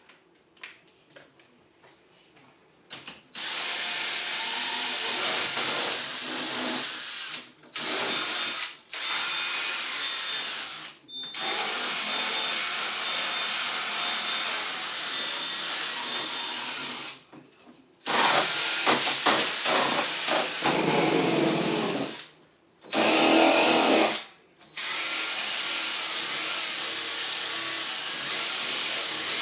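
Power drill spinning a scrub-brush attachment, scrubbing the fridge. It starts about three seconds in and runs in repeated bursts of one to six seconds, with brief stops between them.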